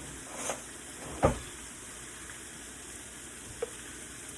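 Shrimp and minced garlic sizzling as they fry in a pan, with a utensil knocking against the pan three times, loudest about a second in.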